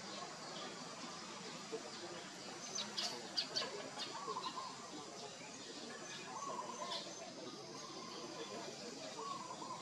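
Outdoor ambience with a steady background hiss, broken by a few short high bird chirps about three seconds in and once more near seven seconds.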